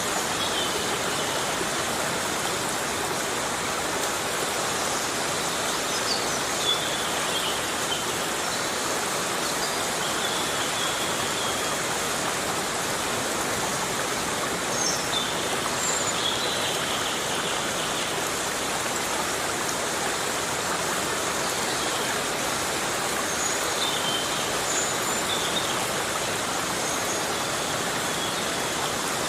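Heavy rain falling steadily in a forest, an even hiss, with faint short high chirps here and there.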